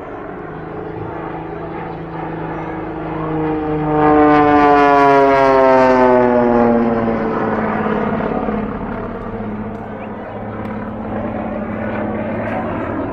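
Small propeller airplane flying past. Its engine note swells to its loudest about four seconds in, then drops steadily in pitch as it passes and moves away.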